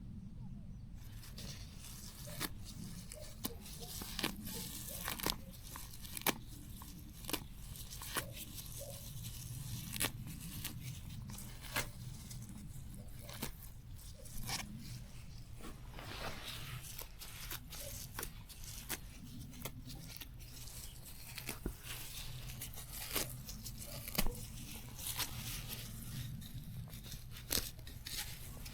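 Plants being torn and pulled up by hand: repeated tearing and rustling with sharp, irregular snaps over a steady low hum.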